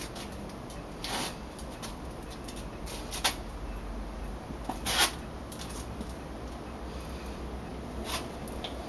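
A few short, scattered clicks and rustles of something being handled, over a low steady background hum.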